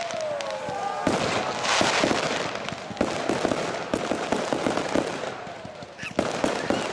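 Fireworks display: aerial shells bang, with dense crackling throughout and falling whistles in the first second.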